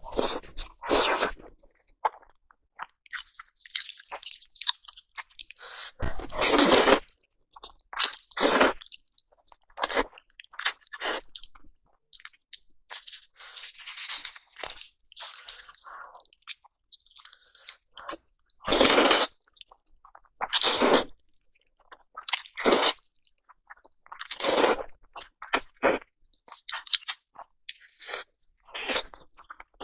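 A person chewing and biting into crunchy food, in separate crunches a second or two apart with short pauses between them.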